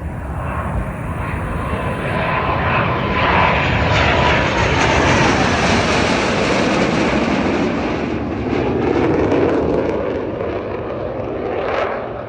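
Fixed-wing airplane flying past, its engine noise swelling to a peak in the middle and fading near the end, with a faint whine that drops slowly in pitch during the first few seconds.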